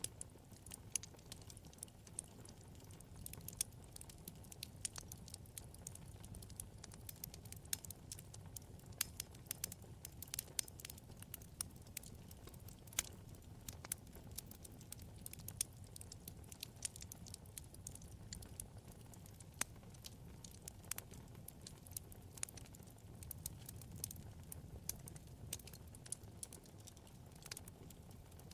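Wood fire burning in a fireplace: a steady low rumble of flame with many sharp, irregular crackles and pops from the burning wood.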